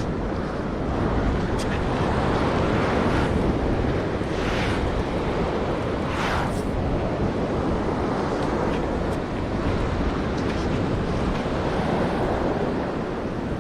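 Steady wind on the microphone over surf washing on the beach, with a couple of brief hissing swells.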